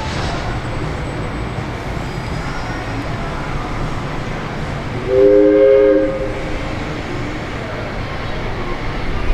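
Diesel locomotive running with a steady low rumble. About five seconds in, its horn gives one short blast of about a second, a chord of several tones.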